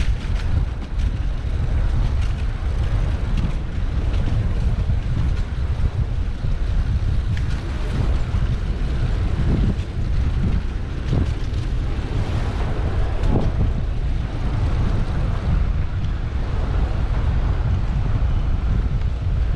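Wind buffeting the microphone of a bike-mounted action camera while riding, a steady low rumble, with street traffic underneath.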